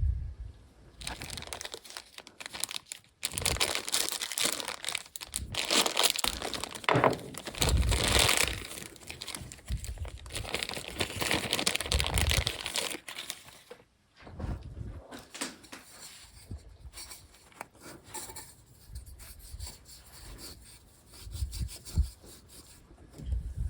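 Rubbing and crinkling handling noises, loudest through the first half, with a few dull thumps.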